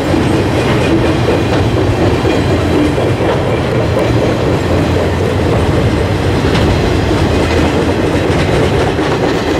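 Freight train flatcars rolling past close by: a steady, loud rumble of steel wheels on the rails.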